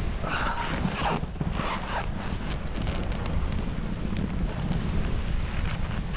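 Wind buffeting the microphone during a snowboard descent, with two hissing swishes of a snowboard's edge scraping over snow in the first two seconds.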